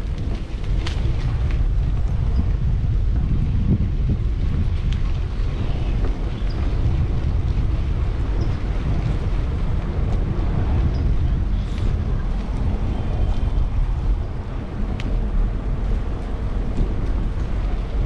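Wind buffeting the microphone of a camera on a moving bicycle: a steady, heavy low rumble with a few faint clicks.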